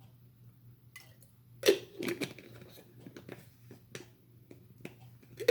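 Irregular close-up clicks and crackling handling noises, the loudest a sharp click about a second and a half in, over a steady low hum.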